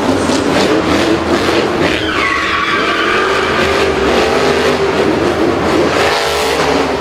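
Vehicle engine running and revving, with a drawn-out tyre squeal starting about two seconds in that falls in pitch and then holds.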